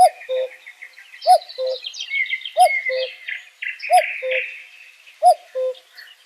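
Birds calling: a low two-note call, the first note higher and the second lower, repeats five times at an even pace, over continuous high twittering and chirping of smaller birds.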